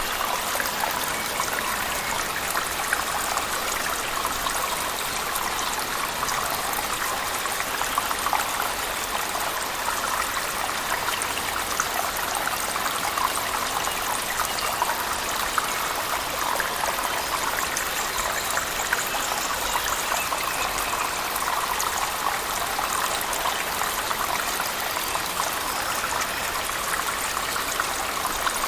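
Cave waterfall splashing, mixed with heavy rain, as one steady rushing water noise with scattered small splashes and drips.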